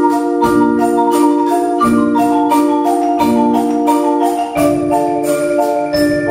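Percussion ensemble playing mallet percussion: a steady, quick run of struck marimba and xylophone notes in a repeating melodic pattern, with higher glockenspiel-like notes ringing above.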